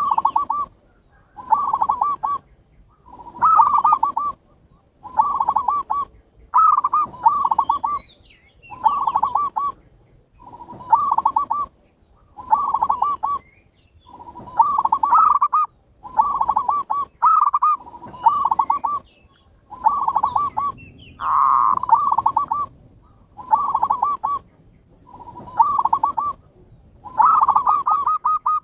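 Zebra doves (perkutut) singing their cooing song: short rolling phrases of a few notes, repeated about every second and a half to two seconds.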